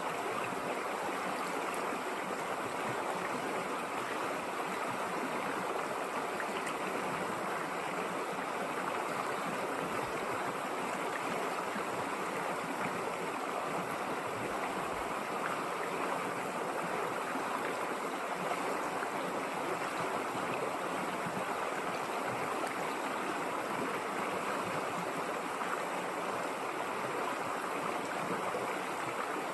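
River water flowing and burbling over rocks, a steady rushing sound that holds even throughout.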